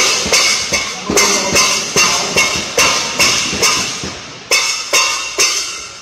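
Rhythmic percussion: sharp hits about two and a half times a second, stopping shortly before the end.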